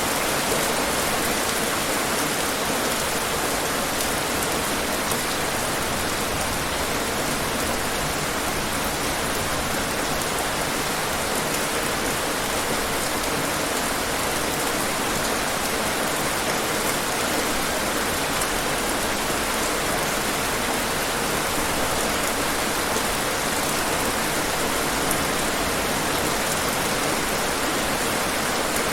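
Steady rain falling: an even, unbroken hiss of rain with faint individual drop ticks.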